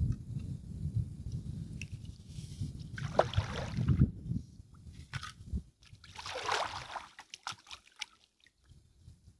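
Water sloshing and splashing around a kayak, with two splashes about three seconds apart, over a low rumble that stops about six seconds in. Small knocks follow.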